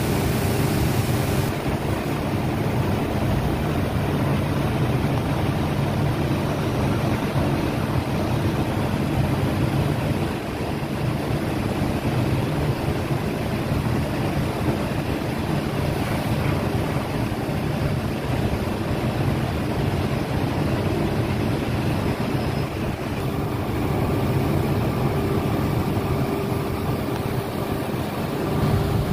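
An engine running steadily at an even pitch under a constant rush of wind and water-like noise.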